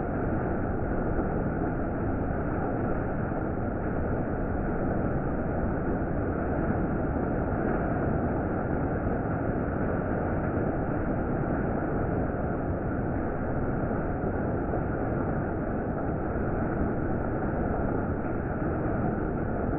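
Heavy monsoon rain falling, a steady even hiss that holds at the same level throughout.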